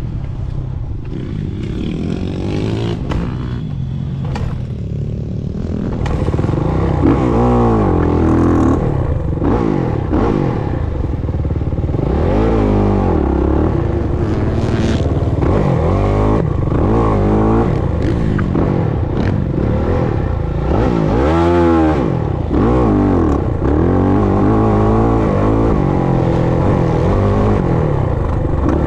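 Motocross bike engine running hard, its pitch rising and falling again and again as it is revved up and eased off. It gets louder about six seconds in.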